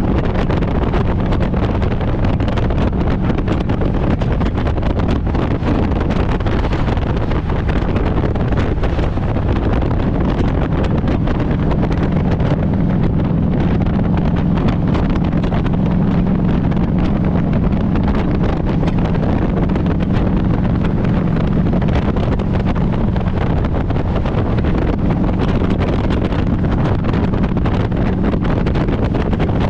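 Harley-Davidson Road Glide's V-twin engine running steadily on the road, with wind buffeting the microphone; the engine note grows stronger for a stretch in the middle.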